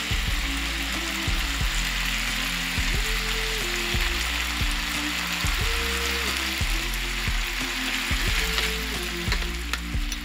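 Chicken tawook pieces and chopped vegetables sizzling steadily as they fry in a pan, with background music playing.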